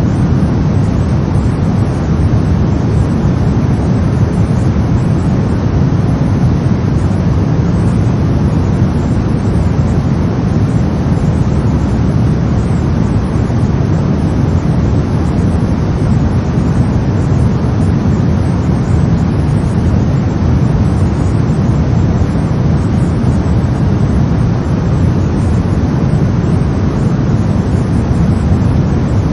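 Brown noise: a steady, deep rumbling hiss, loudest in the low end and thinning toward the highs, with no change in level.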